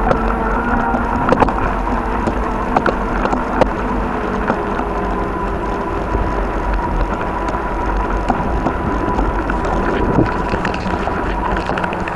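Bicycle being ridden on a snowy path in strong wind: steady rumble of wind on the microphone with tyre and drivetrain noise and a faint steady hum, broken by scattered clicks and knocks.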